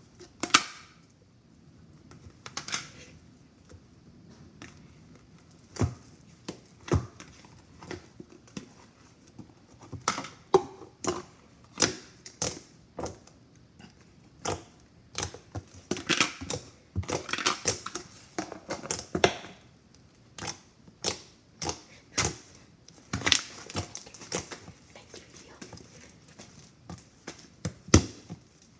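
Slime being played with by hand, giving irregular sharp clicks and short crackly bursts at uneven intervals.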